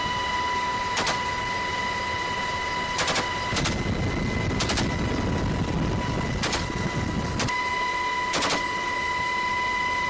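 Military helicopter cabin noise: a steady high-pitched whine under a constant rumble, broken by about six sharp cracks at irregular intervals, with a deeper rumble swelling in the middle and dropping away suddenly near the end.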